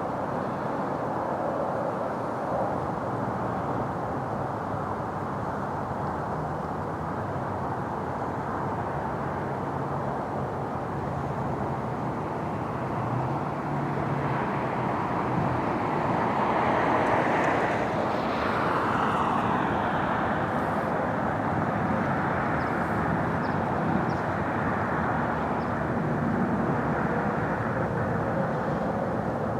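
Steady outdoor traffic rumble, with a vehicle passing by from about 14 to 20 s: it swells, then its pitch falls as it goes away.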